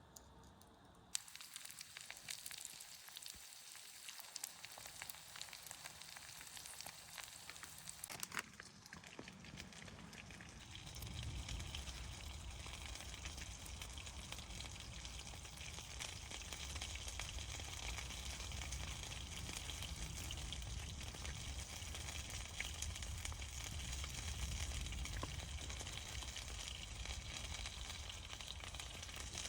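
Sizzling and crackling of cooking over a campfire: a dense hiss full of small pops and clicks. It fills out a little over a third of the way in, when a low rumble joins it.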